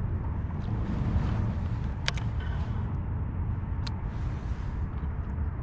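Steady low rumble of wind on the microphone, with two sharp clicks about two seconds apart.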